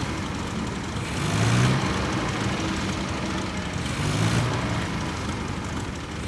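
Vintage racing car engine running, its note swelling about every three seconds.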